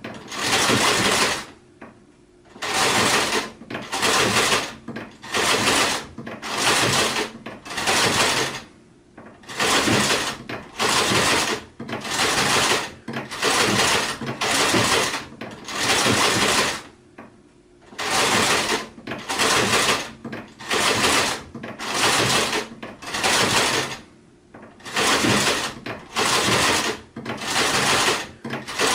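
Sewing machine stitching in short runs of about a second each, stopping and starting again over and over. A few stops near the start, in the middle and toward the end last a little longer.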